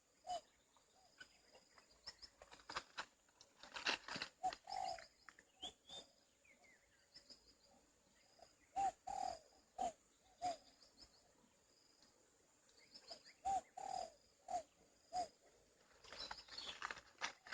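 A bird calling in phrases of three or four short low notes, repeated several times, among scattered sharp clicks.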